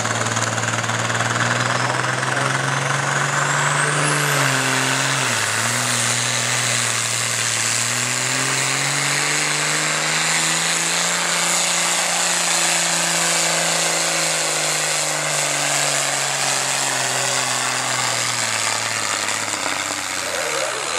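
Farm stock pulling tractor's diesel engine running hard under load while dragging the weight sled. The revs sag about five seconds in, climb back, then slowly fall away and drop off near the end as the tractor bogs down.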